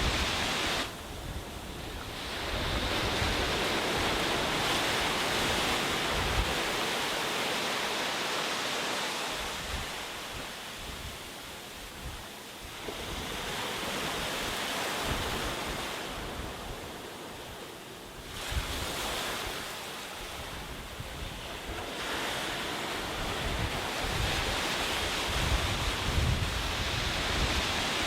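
Sea waves breaking and washing up a beach, the surf swelling and easing every several seconds, with wind buffeting the microphone.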